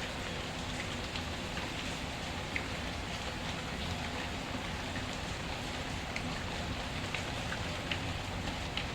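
Steady rain falling, an even rushing hiss, with scattered small pops and crackles from a wood fire.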